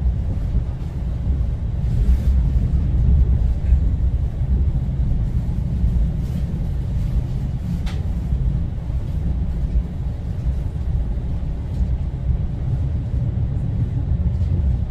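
Inside the passenger car of a Mugunghwa-ho train: the steady low rumble of the train running along the track, with a few faint clicks.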